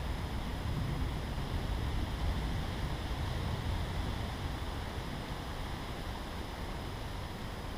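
Wind in a forest: a steady rushing with a gusty low rumble of wind buffeting the microphone.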